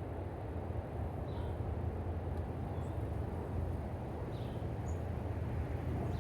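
A steady low rumble, with a few faint short bird chirps over it every second or two.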